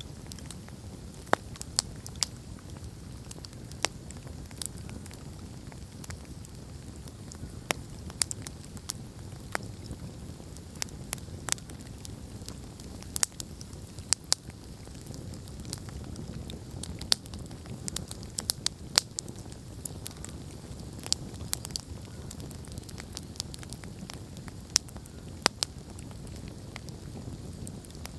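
Wood campfire burning: a steady low rush of flames with frequent sharp, irregular pops and crackles from the burning wood.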